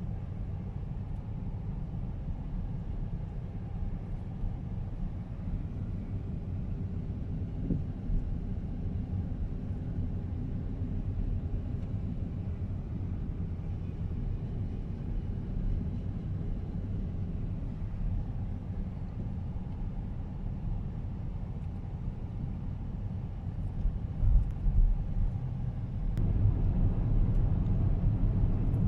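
Steady low rumble of a car driving along a road, tyre and engine noise with no music or voice. Near the end there are a few brief thumps, then the rumble grows louder.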